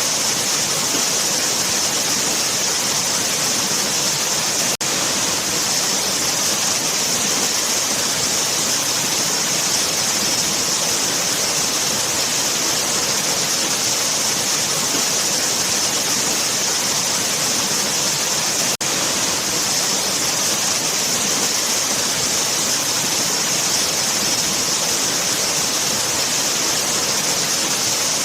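Waterfall: a steady, hissing rush of falling water. It cuts out for an instant twice.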